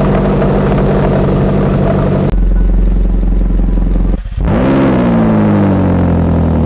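Car engine heard through a microphone placed inside its titanium exhaust pipe, idling steadily. About two seconds in the sound changes abruptly to a deeper, stronger idle; a little past four seconds it briefly drops out, then the revs jump up and slowly settle back to idle.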